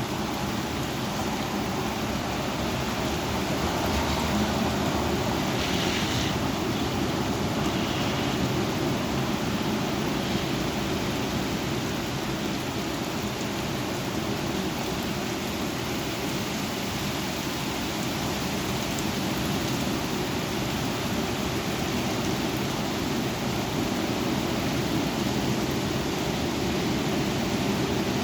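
Strong thunderstorm winds blowing, a steady rushing noise with a brief sharper gust-like hiss about six seconds in.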